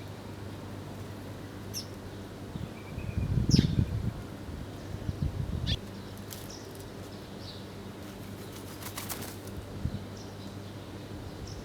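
Birds flapping their wings in short bursts, about three and five seconds in, among brief high chirps every second or two. A quick run of clicks comes near the end, over a steady low hum.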